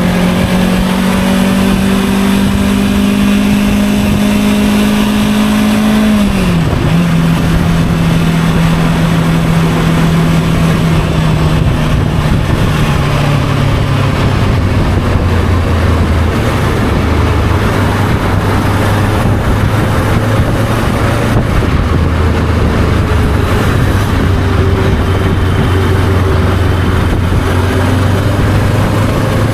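Motorcycle engine running on the move, with a steady rush of wind and road noise. The engine note climbs slowly, drops sharply at a gear change about six and a half seconds in, then falls gradually to a lower, steady note from about fourteen seconds on as the bike slows.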